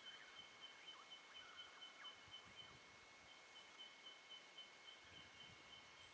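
Near silence: faint outdoor ambience with a thin, steady high-pitched trill that drops out briefly in the middle, and a few faint chirps.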